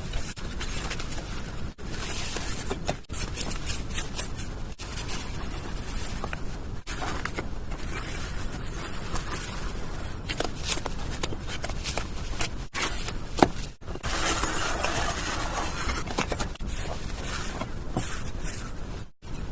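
A hand tool scraping and rubbing on a hard surface, with small clicks, broken by several abrupt cuts and one sharp knock about two-thirds of the way through.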